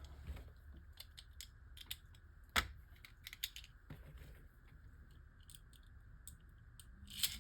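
Faint scattered clicks and handling noise from small plastic Beyblade Micros spinning tops being handled and set up, with one sharper click about two and a half seconds in.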